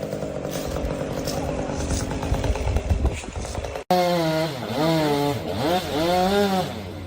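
Two-stroke chainsaw running steadily. After an abrupt cut a little before the four-second mark, a chainsaw revs with its pitch repeatedly dipping and rising, about once a second.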